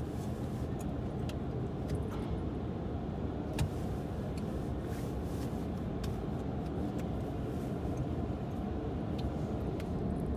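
Car engine idling, heard from inside the cabin as a steady low rumble, with a few faint clicks scattered through it.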